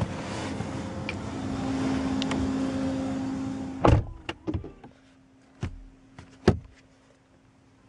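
Small electric motor of a car's power adjustment whirring steadily, stopping about four seconds in. A sharp knock and a string of lighter clicks and knocks follow, the last loud one a couple of seconds later.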